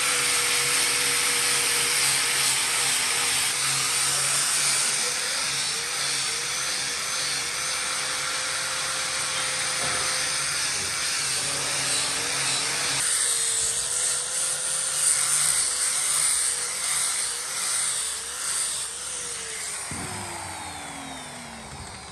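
Power tool running steadily with a dense hissing cutting noise over a steady wavering whine. Near the end its motor spins down, the whine falling in pitch as the sound fades.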